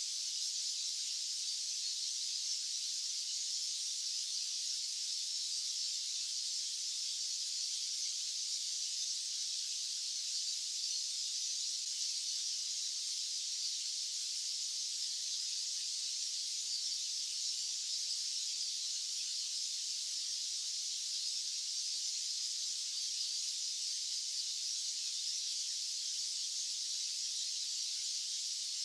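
Continuous white-noise track: a steady, even, high hiss with no low rumble, unchanging throughout.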